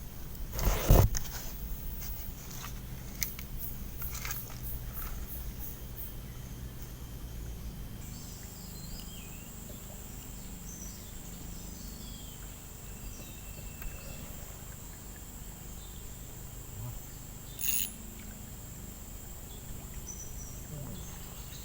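Riverside forest ambience: a steady high-pitched insect drone sets in about 8 seconds in, with scattered short chirps over it. A loud brief rustle or knock comes about a second in, a few light clicks follow, and there is another short burst near the end.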